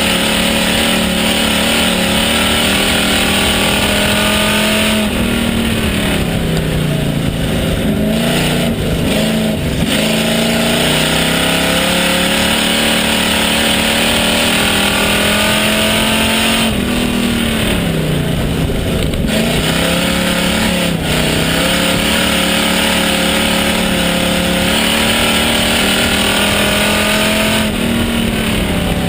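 Pure stock race car's engine heard from inside the car at racing speed. The revs climb steadily down the straights and fall away three times as the driver lifts for the turns, then pick up again.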